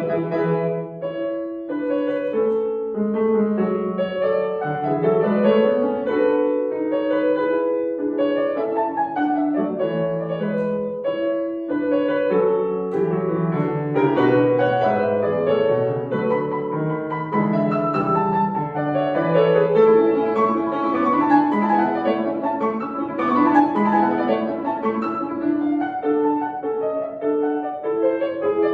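Solo piano playing a classical piece: a continuous stream of notes, with a melody over a moving bass line.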